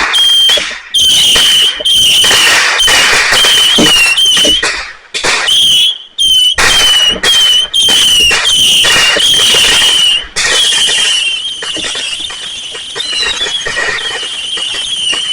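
Consumer fireworks going off: a rapid string of loud blasts with a high, wavering whistle running through them, easing to softer continuous crackling about ten seconds in.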